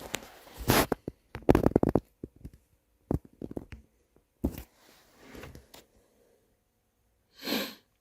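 Irregular clicks, knocks and rustling of something being handled, with a short breathy hiss about seven and a half seconds in.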